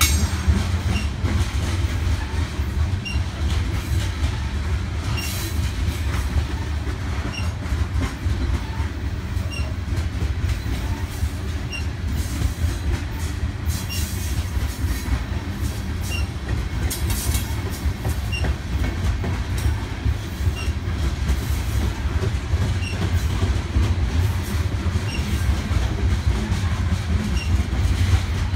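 Long string of BNSF coal hopper cars rolling past on the track: a steady low rumble of steel wheels on rail that does not let up.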